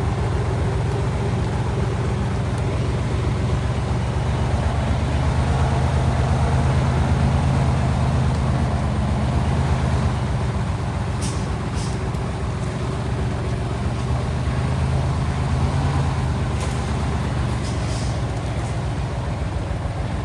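Heavy log truck's diesel engine running steadily, with a few short hisses about halfway through and again near the end.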